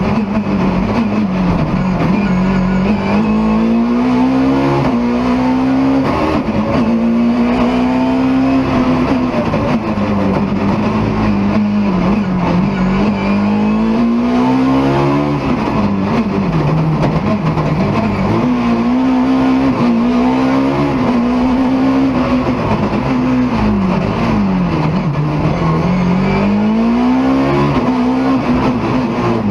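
BMW E30 M3's four-cylinder engine driven hard, its pitch climbing under acceleration and dropping sharply at each gear change, with dips and recoveries where it slows for corners and pulls out again.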